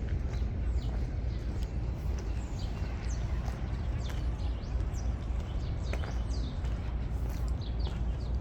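Songbirds chirping repeatedly, many short downward-sliding calls overlapping, over a steady low rumble.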